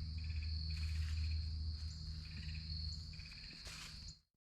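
Crickets and other insects chirping: a steady high trill with rhythmic pulsed chirps, over a low steady hum. The sound cuts off suddenly about four seconds in.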